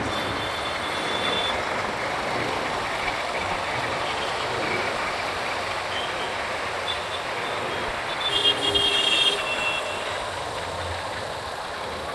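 Steady wind and road noise on a moving motorcycle riding through city traffic. A brief high-pitched tone, such as a vehicle horn, sounds about eight seconds in.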